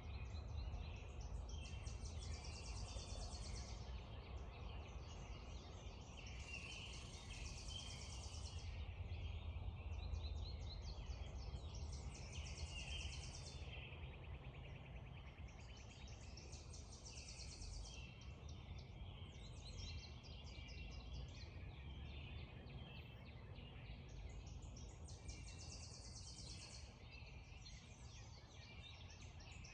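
Dawn chorus of songbirds: one bird repeats a high, dry trill of a second or two every few seconds over many smaller chirps and songs, with a steady low rumble underneath.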